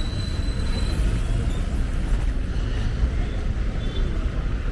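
Steady low rumble of road traffic, with no clear single event standing out.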